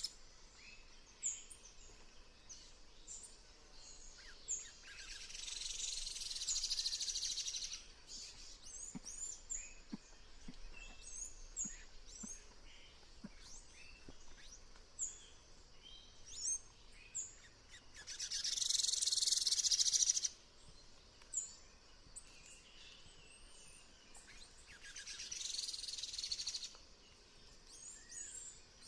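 A tanager calling: many short, high chirps and quick rising and falling notes, scattered throughout. Three times a long buzzing sound of about two seconds rises and fades, louder than the chirps, the loudest about two-thirds of the way in.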